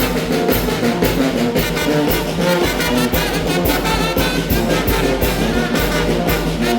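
Mexican brass band (banda) playing a huapango: brass melody with trombones and trumpets over a steady, even beat of drums and cymbals.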